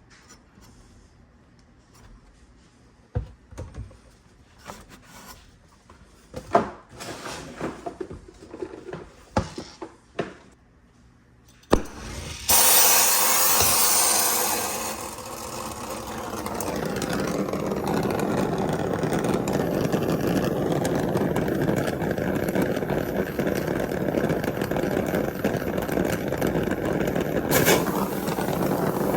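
Scattered handling clicks and knocks, then about twelve seconds in a sharp click and a loud hissing burst as a gas torch lights. It settles into a steady rushing burn as the flame heats the aluminum coil pipe for a patch repair.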